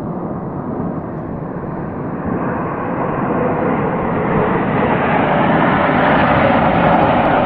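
Jet roar of military aircraft flying overhead, growing steadily louder as they approach.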